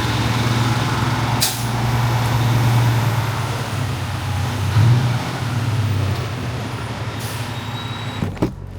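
Semi-truck's diesel engine running with a steady low drone, heard from inside the cab, with one brief sharp sound about a second and a half in.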